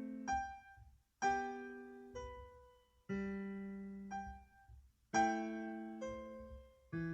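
Background music: a slow electric piano tune, with a new note or chord struck about once a second, each fading away.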